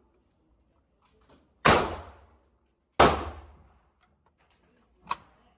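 Semi-automatic shotgun firing two shots just over a second apart, each crack trailing off in a long echo, then a shorter, quieter crack near the end.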